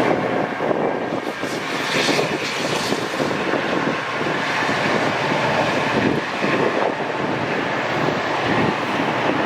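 A passing train: steady rolling roar, with some wind on the microphone.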